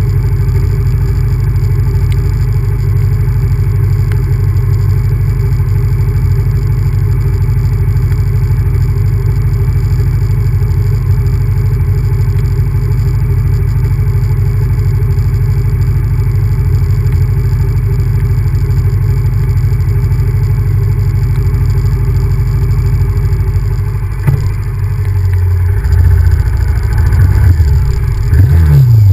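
Honda VTR1000F's V-twin engine running under a steady low rumble while riding. In the last few seconds the engine dips briefly, then its pitch rises and falls with throttle changes.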